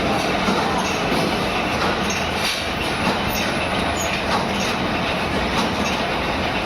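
Factory machinery running, a steady dense mechanical noise with faint irregular ticks through it.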